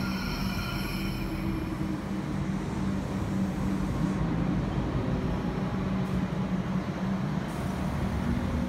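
Electric suburban train moving slowly along a station platform: a steady low hum, with a high whine over it for the first two seconds or so.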